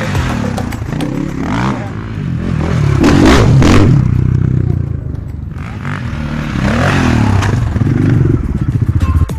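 Motocross motorcycle engine revving up and down, loudest about three to four seconds in and again around seven to eight seconds in.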